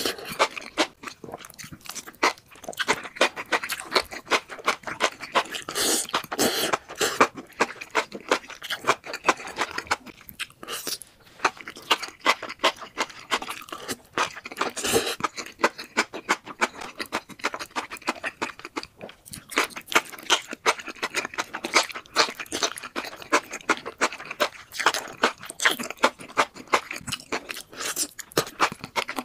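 Close-miked mouth sounds of eating enoki mushrooms coated in thick spicy red sauce: wet chewing with many quick clicks and smacks, several a second, with no pause.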